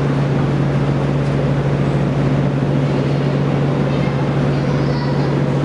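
Steady low mechanical hum of a standing train's onboard equipment, an even drone with no rise or fall.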